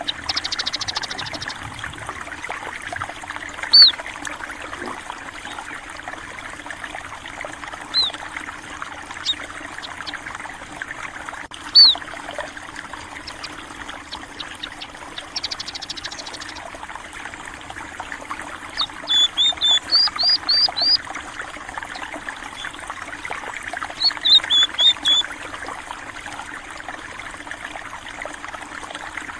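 A steady trickle of flowing water, with sparrows chirping over it: single high chirps every few seconds and quick runs of several chirps about two-thirds of the way through and again a little later. A rapid, high buzzing trill comes in briefly at the start and again about halfway.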